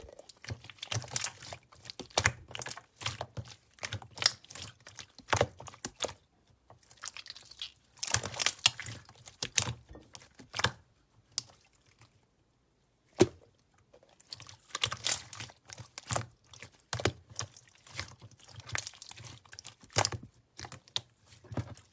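Clear slime being squeezed and pressed by hand, giving irregular bursts of crisp clicks and wet crackling pops, with a short pause about halfway through broken by one sharp pop.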